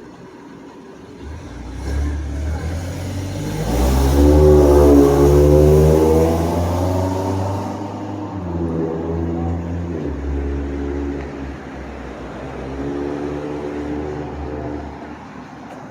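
A motor vehicle passing close by with its engine accelerating. It swells to its loudest a few seconds in, then the engine note comes in several shorter pulls before it fades.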